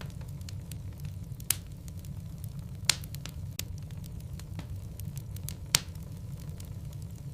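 Logs burning in a fireplace, crackling with a steady scatter of small ticks over a low rumble. Three sharper, louder pops come at about a second and a half, three seconds and near six seconds in.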